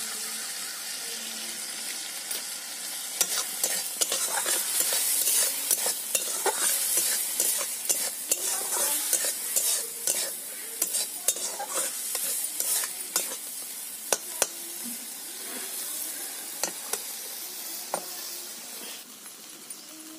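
Fish pieces and spice masala sizzling in oil in a kadai. A steel spatula stirs and scrapes against the pan in quick, irregular strokes from about three seconds in, easing off near the end.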